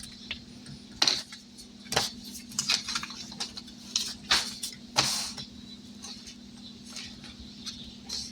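Paper money and an envelope being handled: a series of short rustles, crinkles and light taps, with a longer rustle about five seconds in, over a steady low hum.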